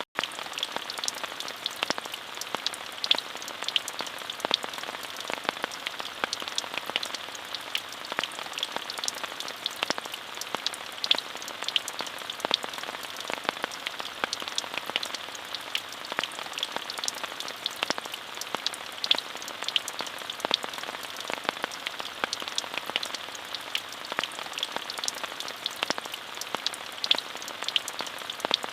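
Steady rain falling, an even hiss with many close, sharp drop ticks on a hard surface scattered all through it.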